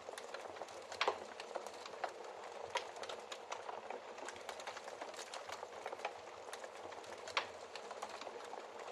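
Wood fire crackling in a fireplace: a soft steady hiss with frequent irregular small crackles and a few louder pops, about a second in, near three seconds and near the end.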